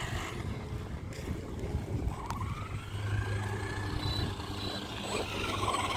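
Radio-controlled truck's electric motor whining as it drives, its pitch rising and falling with the throttle, over a low rumble.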